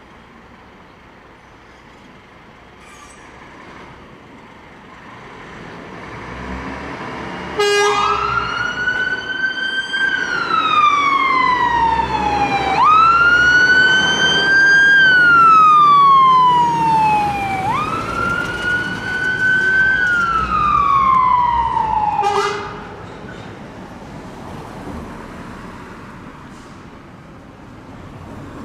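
Emergency vehicle siren on a slow wail, loud: three cycles, each a quick rise in pitch followed by a long, slow fall. It switches on suddenly about seven seconds in and cuts off abruptly at about twenty-two seconds, over a background of road traffic.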